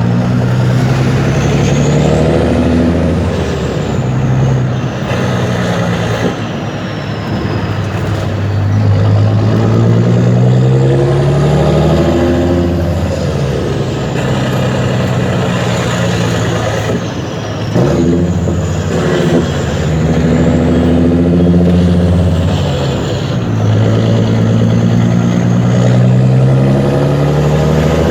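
Mercedes-Benz Actros 2636's V6 diesel engine running through a straight, unsilenced exhaust, pulling through the gears: the engine note climbs, drops at each shift and climbs again, several times over.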